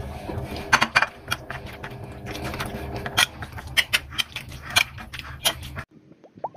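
Kitchen clatter: utensils and dishes clicking and knocking against each other at an uneven pace over a steady low hum. It cuts off suddenly near the end.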